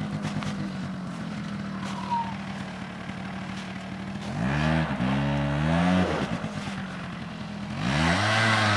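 Quad bike engine idling, then revved up twice: once about four seconds in, dropping back after a couple of seconds, and again near the end, held at higher revs.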